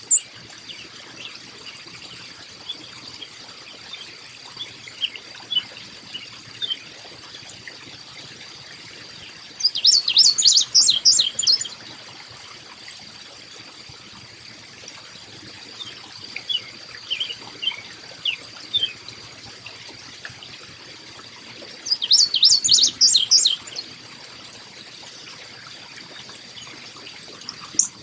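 Small songbird calling: two loud bouts of rapid, high, chirping notes, each about two seconds long, with fainter scattered calls between them, over a steady trickle of water and a thin steady high tone.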